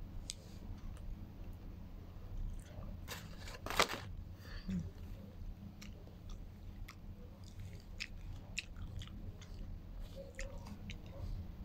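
Close-up chewing of a person eating: a run of small wet mouth clicks and crunches, with one louder crunch about four seconds in.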